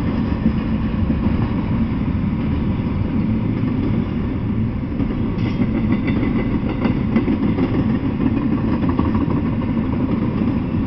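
Double-stack intermodal freight train rolling past: a steady rumble of steel wheels on the rails, with faint high squeals from the wheels about halfway through and again near the end.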